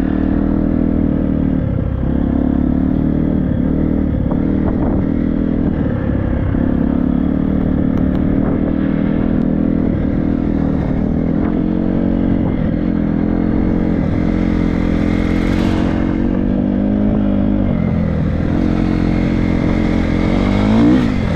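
Triumph 250 motocross bike's single-cylinder four-stroke engine running under the rider at fairly steady revs, with scattered clattering knocks from the bike, and the revs rising sharply near the end.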